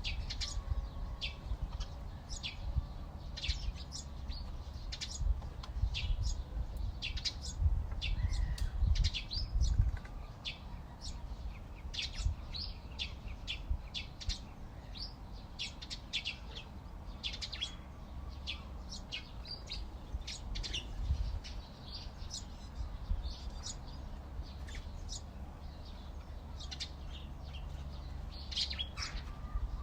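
Backyard songbirds chirping, many short high chirps overlapping and following one another quickly, over a low rumble that is stronger in the first ten seconds or so.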